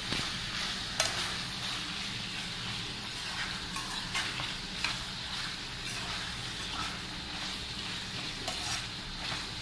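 Liver and skin pieces frying in a nonstick pan with a steady sizzle, stirred now and then, the utensil knocking and scraping against the pan; the sharpest knock comes about a second in.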